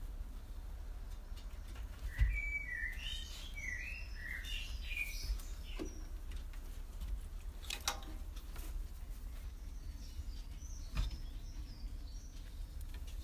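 Small birds chirping: a quick run of high chirps about two seconds in that lasts a few seconds, and fainter chirps near the end. Underneath runs a steady low rumble, with a few sharp clicks.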